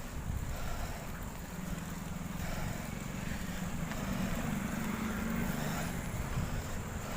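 A motor vehicle's engine droning low, swelling from about a second and a half in and fading after about five seconds, over steady wind and road noise.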